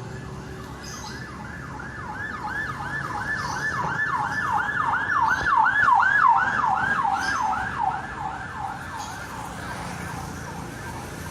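Emergency vehicle siren in a fast yelp pattern, about three rising-and-falling sweeps a second, growing louder to a peak partway through and then fading as it passes.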